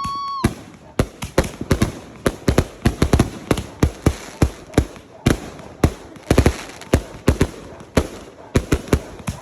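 Fireworks going off in quick succession: sharp bangs, irregular and several a second, some in tight clusters. A steady high whistle cuts off about half a second in.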